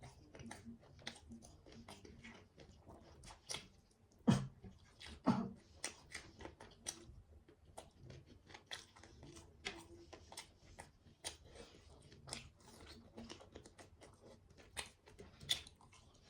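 Close-up chewing and crunching of food, with many small wet clicks of the mouth and two louder thuds about four and five seconds in.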